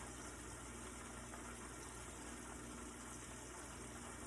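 Chicken wings frying in hot grease under a lid: a faint, steady hiss over a low, even hum.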